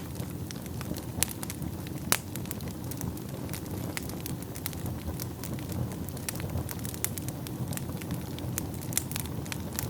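Wood fire burning in a fireplace: a steady low rumble of flames with frequent irregular sharp crackles and pops, a couple of them louder than the rest.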